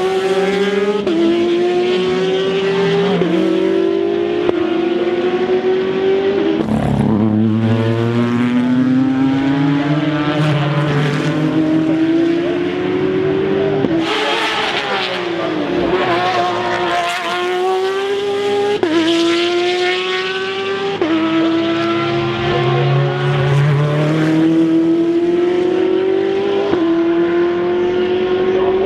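Racing cars at full throttle going up through the gears, engine pitch climbing and dropping with each upshift about every one to two seconds, with cars passing and their note falling as they go by.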